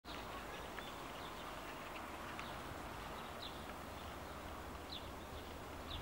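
Outdoor ambience: a steady background hiss with a low rumble, and faint, brief high chirps of small birds gliding downward, scattered about once a second.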